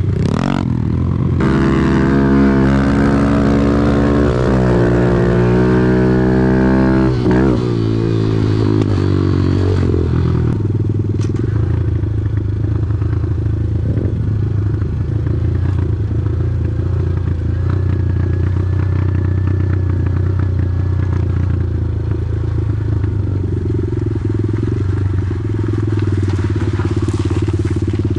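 Off-road vehicle engine running under way, its pitch rising and falling for the first several seconds as the throttle is worked, then settling into a steadier low drone.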